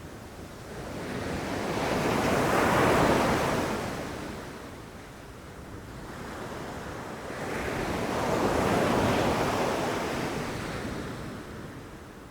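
Ocean waves breaking and washing in, two waves in succession: each surge rises over a couple of seconds, peaks in a rushing crash and ebbs away, the first about three seconds in and the second about nine seconds in.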